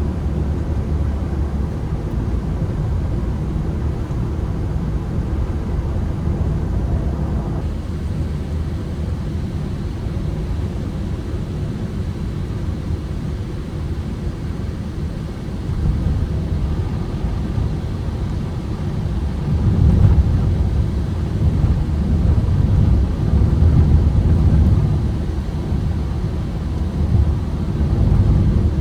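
Ford Transit Connect van's petrol engine and road rumble while driving, a steady low drone. It grows louder about halfway through and is loudest in stretches later on.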